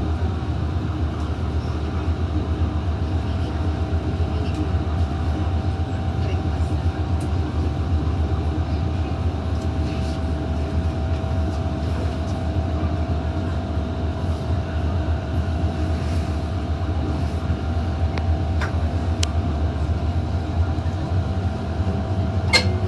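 MTR M-train electric multiple unit running on the Disneyland Resort Line, heard from inside the car: a steady rumble with a steady whine that drifts slightly lower. A sharp click comes near the end.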